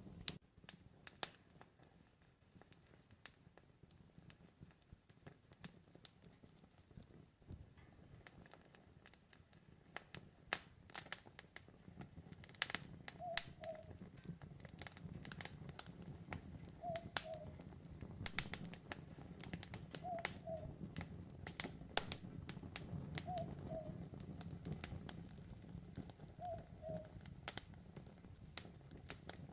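Campfire crackling, with sharp irregular pops and snaps that grow denser about a third of the way in. From about halfway, an owl calls a short two-note hoot about every three seconds.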